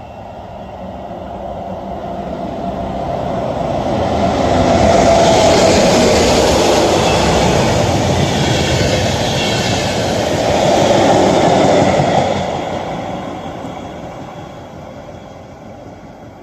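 A train passing by. Its rumble grows louder over the first few seconds, stays loud for several seconds, then fades away.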